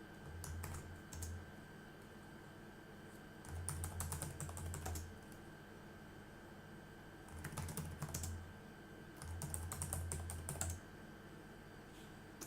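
Typing on a computer keyboard in four short bursts of rapid key clicks, with pauses between them.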